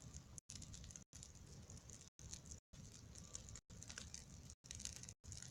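Campfire crackling faintly, with many small irregular pops over a low rumble; the sound drops out to silence for a moment every half second or so.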